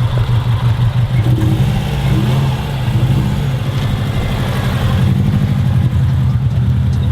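A car engine idling close by, loud and steady with a fast, even low pulse.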